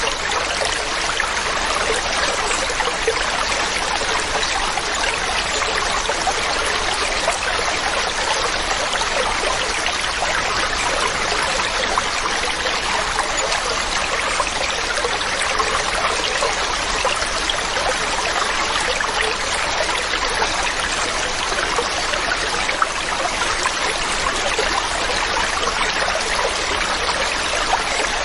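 Waterfall: water rushing and splashing steadily.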